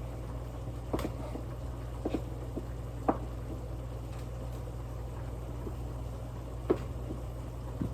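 A knife knocking on a cutting board now and then as a block of cheese is cut into small cubes, over a steady low hum.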